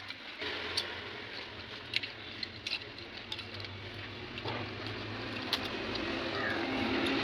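Scattered sharp clicks and taps of metal tools and engine parts being handled during moped engine assembly, over a low steady background hum.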